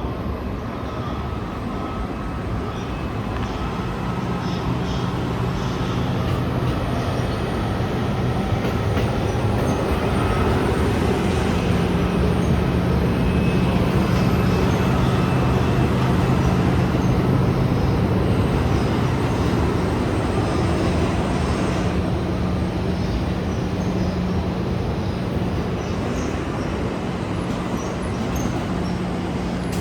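Electric train running past at slow speed: a steady low hum over rumbling wheel noise that swells to its loudest about halfway through, then eases off.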